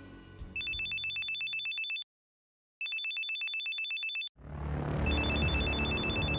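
Telephone ringing with a fast electronic trill: two rings of about a second and a half each, a short silent gap between them, then a third, fainter ring over a low background rumble near the end.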